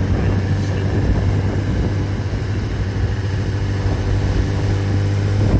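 An engine running steadily at a constant speed, giving a deep, even hum.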